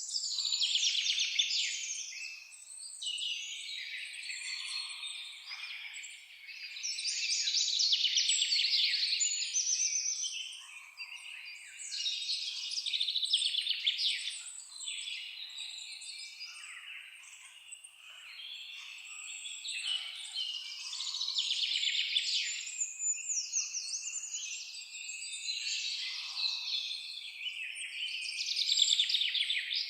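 Several songbirds singing at once: overlapping high chirps, trills and warbled phrases that swell and fade in waves every few seconds.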